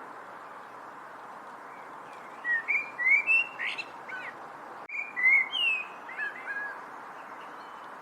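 A songbird singing two short phrases of quick, slurred whistled notes, about two and a half and five seconds in, over a steady background hiss.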